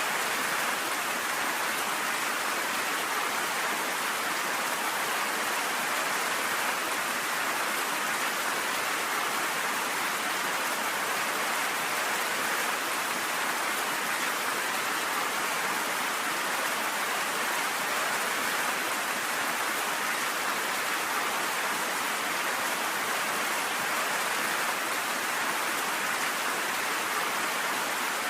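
Steady rainfall, an even hiss of rain on surfaces with no thunder.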